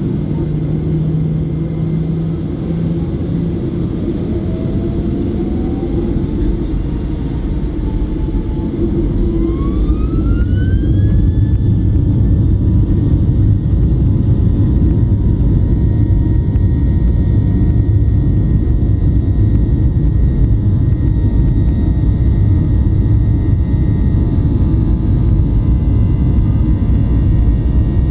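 Boeing 737-800's CFM56 jet engines spooling up to takeoff thrust, heard from inside the cabin: a whine rises steadily in pitch for several seconds and then holds, as the cabin noise grows louder and a deep rumble of the takeoff roll sets in.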